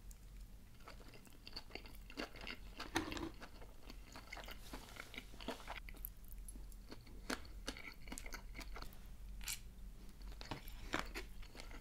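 A person chewing a mouthful of sushi: small crunches and mouth clicks scattered throughout, with a louder click about three seconds in.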